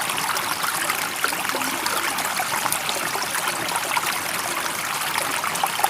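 Steady rushing of flowing water, an even hiss without rises or falls.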